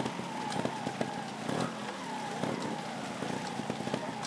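Trials motorcycle engine being blipped while the rider balances the bike, its pitch jumping up and sliding back down about once a second, with scattered sharp clicks.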